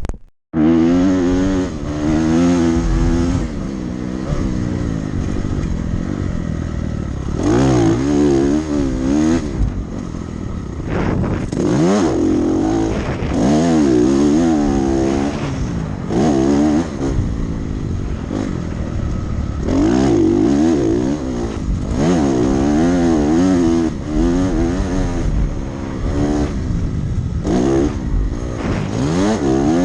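Dirt bike engine ridden hard around a motocross track, revving up and easing off again and again as it accelerates, shifts and backs off, with a brief dropout about half a second in.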